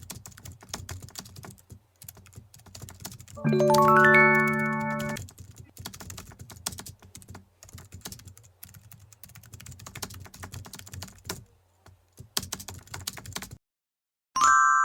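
Rapid, irregular computer-keyboard typing clicks, with a short held musical chord about three and a half seconds in and a brief sustained tone just before the end.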